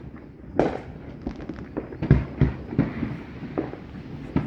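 Fireworks going off around the neighbourhood: a loud bang about half a second in, then a run of further bangs and pops with crackling between them.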